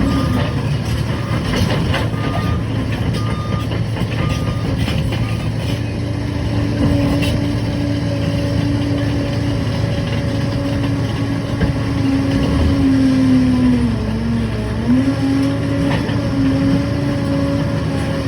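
Liebherr PR 746 crawler dozer running under load: a steady diesel drone with a strong whine over it that sags and recovers about two-thirds of the way through. Short beeps repeat about once a second during the first few seconds.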